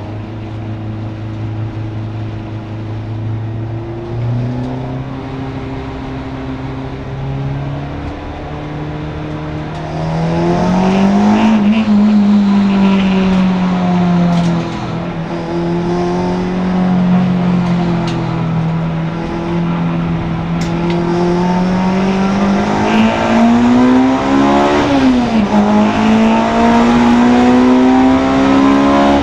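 Honda Integra DC2 race car's four-cylinder engine pulling through the gears, its pitch climbing in steps with each upshift. About a third of the way in it gets much louder and higher, then rises and falls with throttle and gearchanges, with a sharp drop and climb again near the end.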